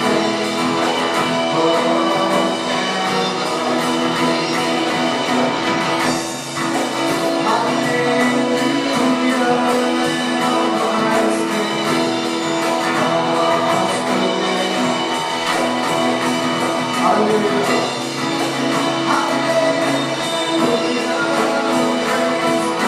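Live band playing a continuous, mostly instrumental passage of a worship song, with guitar among the instruments.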